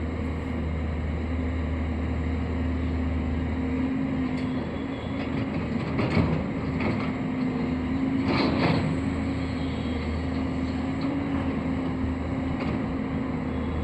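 A radio-controlled toy construction machine (excavator or dumper) running with a steady motor hum. A short scraping clatter comes about six seconds in and another about eight and a half seconds in.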